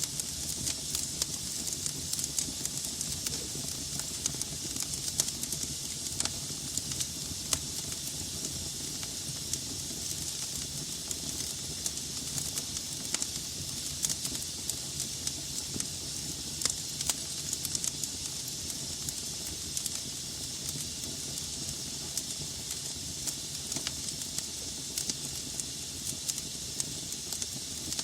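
Wood fire burning in a fireplace: a steady hiss of flames with frequent irregular sharp crackles and pops from the logs.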